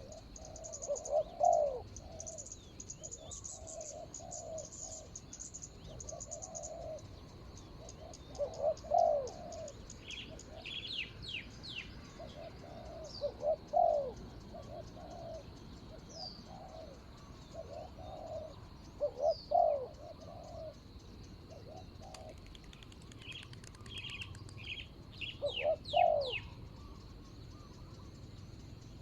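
Spotted dove cooing in repeated phrases, a louder phrase about every five to six seconds with softer coos between them. Quick high chirps from a small bird come twice, near the middle and again near the end.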